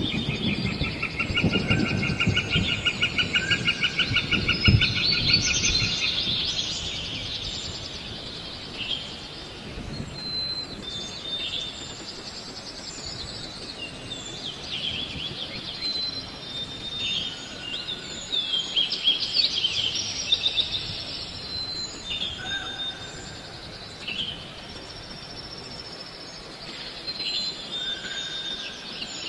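Forest birds calling and singing: a fast trill for the first six seconds or so, then scattered short whistled notes and chirps. A low rumble sits under the first few seconds.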